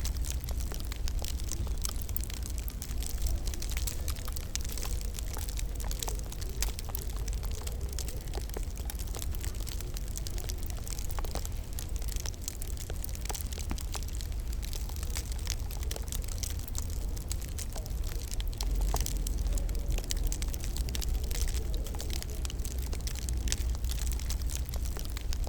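Wood fire crackling in a fireplace: many small sharp pops and snaps, irregular and close together, over a steady low rumble.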